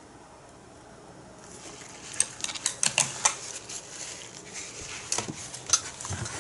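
Irregular sharp clicks and light clatter of hard painting supplies being handled, such as brushes, paint bottles or a water jar, over a faint hiss, starting about two seconds in.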